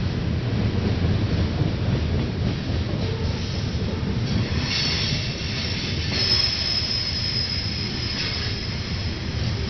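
Freight train rolling past with a steady low rumble; from about halfway in, its wheels squeal high against the rails for several seconds.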